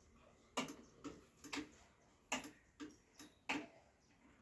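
A series of sharp clicks or ticks, about six in four seconds, unevenly spaced.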